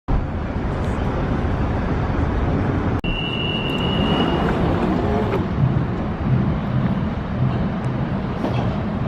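London Underground 1992 Stock train running in the station, a steady rumble. A thin, steady high tone sounds for about a second and a half, starting about three seconds in.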